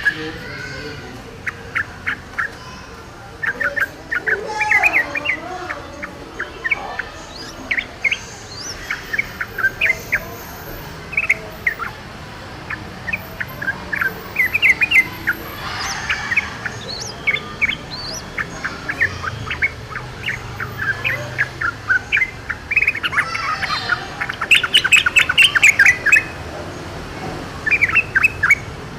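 Yellow-vented bulbuls singing and calling in the wild: short, bubbly, chattering phrases repeated again and again, with a quick burst of notes near the end.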